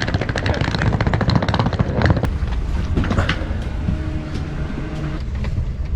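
Low rumble of a train and its station surroundings, with a rapid clatter for about the first two seconds, then a faint steady hum.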